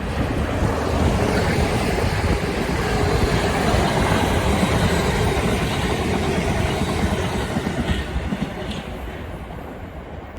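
A passenger train running past along the track, loudest in the middle and fading away over the last couple of seconds.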